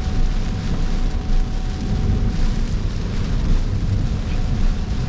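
Steady low road and tyre rumble inside the cabin of an electric 2025 Cybertruck driving on a wet road in the rain. A faint steady tone stops about two and a half seconds in.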